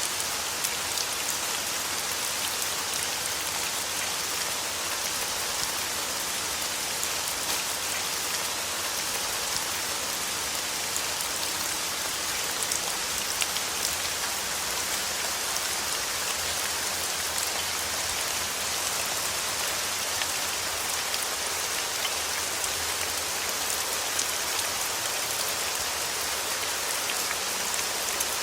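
Steady rain falling on a surface: a continuous hiss with many individual drops ticking through it, even in level throughout.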